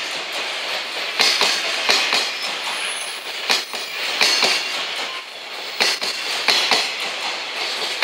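Loaded JR Freight Koki container flatcars of a long freight train rolling past at speed, wheels clacking over rail joints in close pairs of knocks every second or so above a steady hiss of rolling noise.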